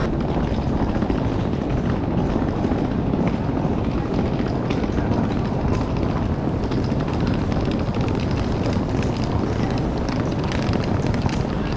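London Underground train running: a steady loud rumble with rattling and clatter.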